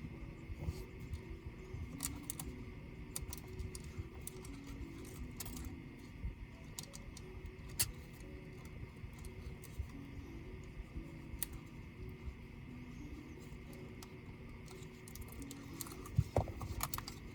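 Small clicks and light metallic taps of laptop parts, screws and hand tools being handled during disassembly, scattered irregularly, with a cluster of louder clicks near the end. Faint background music runs underneath.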